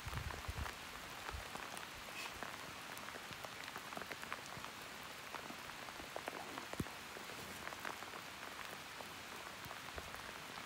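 Light rain: a faint steady hiss with scattered ticks of drops.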